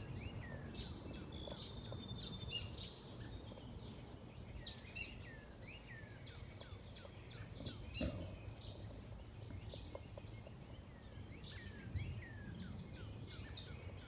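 Small songbirds chirping and calling, many short high chirps and quick falling notes, over a low steady background rumble.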